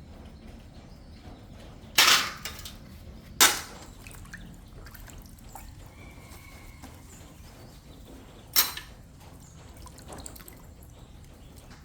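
Three loud, sharp knocks, the first two about a second and a half apart and the third some five seconds later, with a fainter knock near the end, over a low steady background.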